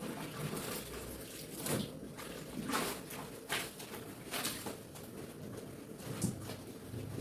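Wet clothes being rubbed and scrubbed by hand, a series of irregular swishing strokes about one a second.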